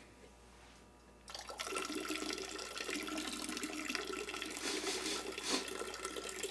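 Water running in a steady splashing stream, starting about a second in.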